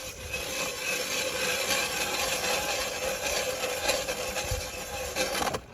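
A saw cutting through wood with a steady, even sound that stops abruptly near the end.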